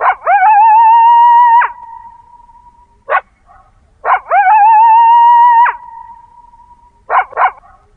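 Coyote howling twice, each howl swooping up, holding a wavering note for about a second and a half and dropping off, with an echo trailing after. A few short yips follow each howl.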